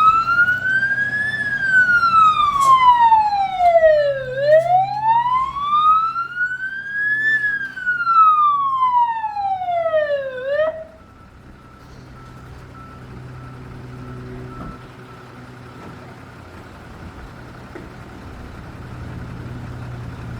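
Fire engine siren on a slow wail, rising and falling twice, then cutting off abruptly about eleven seconds in. A steady low hum carries on afterwards.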